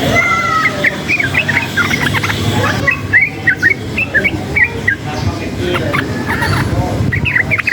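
Yellow-vented bulbul (trucukan) singing in rapid strings of short chirpy, bubbling notes over a steady low background rumble.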